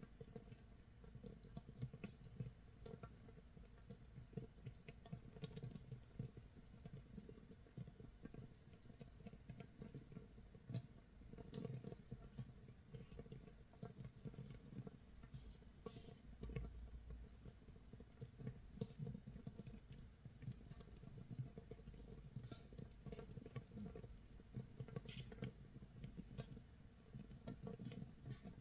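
Makgeolli starter mash (mitsul) fermenting in a jar, 24 hours in: a faint, dense, irregular crackle of small pops as gas bubbles break at the surface, sounding like rain or crisping nurungji.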